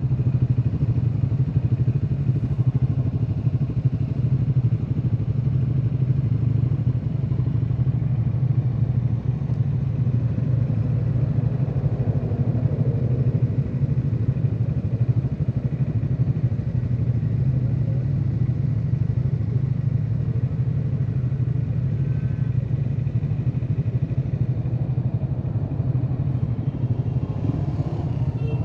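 Triumph Scrambler 400 X's single-cylinder engine running at a steady pace.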